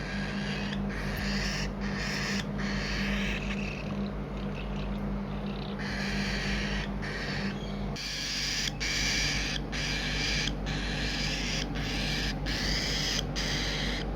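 Cockatiel chicks giving a long run of harsh, raspy begging calls for food, each call under a second with short breaks between. A steady low hum runs underneath for the first half.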